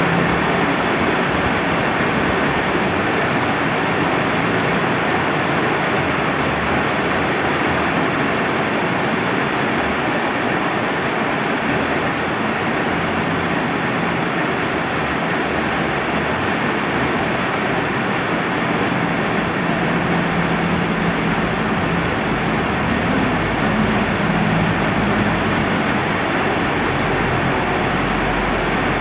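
Steady rain falling beside a flowing river: an even, unbroken hiss of rain and water.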